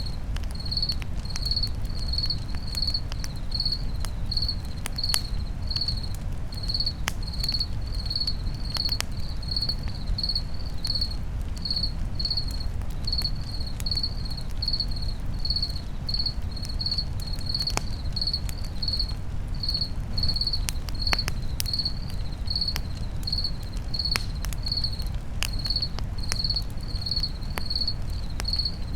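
Crickets chirping steadily, about two high chirps a second, over scattered crackles and pops from a campfire and a steady low rumble.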